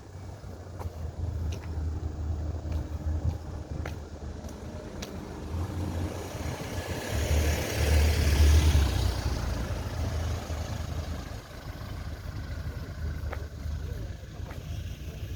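A car passing by: its tyre and engine noise swells to a peak about halfway through, then fades, over a low rumble throughout.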